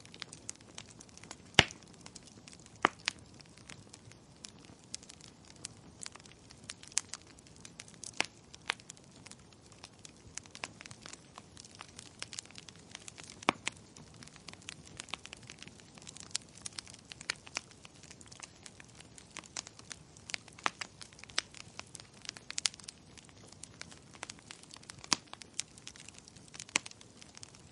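Wood fire crackling, with irregular sharp pops and snaps over a faint steady hiss; the loudest pop comes about a second and a half in.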